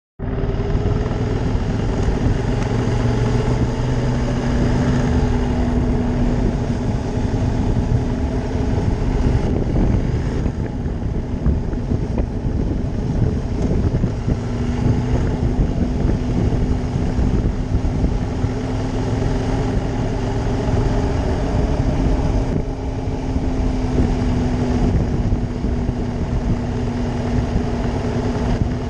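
Ducati Monster 620's air-cooled V-twin engine running steadily under way, with heavy wind rush on the microphone. The engine note eases off about ten seconds in and picks up again a few seconds later.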